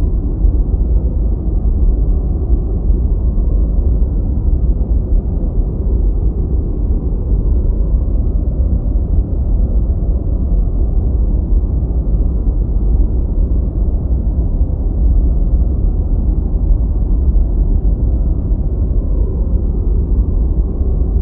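Deep white noise: a steady, unbroken hiss-like rush weighted toward the low end, with nothing in the highs.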